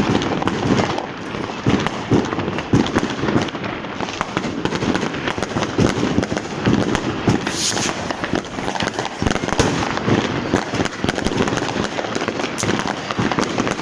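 Continuous street fireworks: dense, overlapping firecracker cracks and bangs with no pause, and a brief hissing burst a little past halfway.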